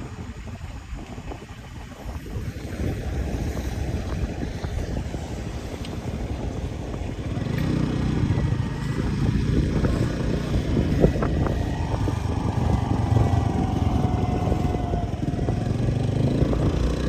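A motor vehicle's engine running, growing louder from about halfway through.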